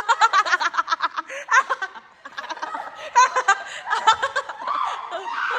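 People laughing in quick, high-pitched bursts: a long run of giggling in the first second and a half, then shorter bursts about three and four seconds in.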